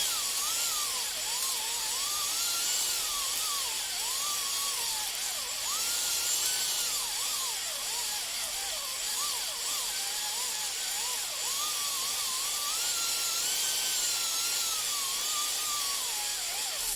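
Electric drill slowly spinning a flex ball hone up and down inside the cylinder bore of a 5.7 Mercruiser (350 small-block Chevy) engine, its motor whine wavering up and down in pitch as it is held near its slowest speed, over a steady hiss. It stops abruptly at the end.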